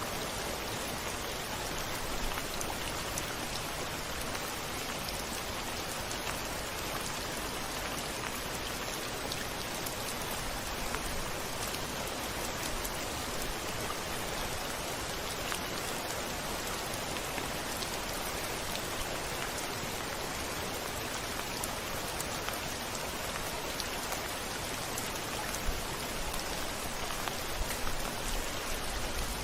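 Steady rain on a window, with many small drop ticks. A brief low rumble comes near the end.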